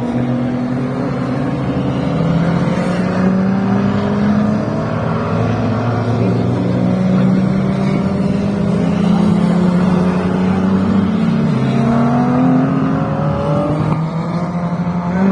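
Several classic racing cars' engines running at high revs on the track, their pitch rising and falling as the cars pass and change speed.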